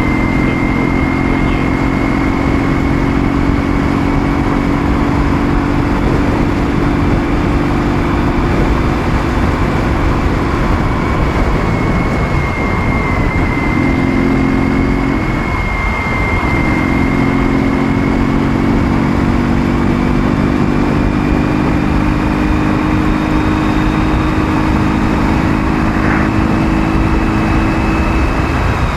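Ural motorcycle's 650 cc flat-twin engine running at a steady cruising speed under heavy wind noise. The engine note eases and changes pitch briefly about halfway through, then settles again.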